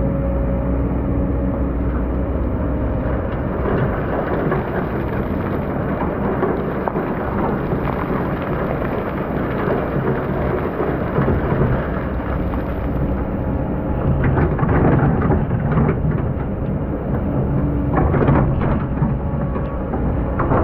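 Hydraulic excavator's diesel engine running steadily under load while its bucket scrapes and crunches through hard-packed old sand, with two louder bouts of grinding in the second half.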